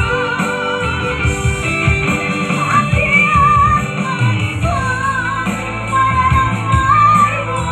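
A solo singer with a strong wavering vibrato, backed by guitar and band accompaniment, singing a Batak Toba song.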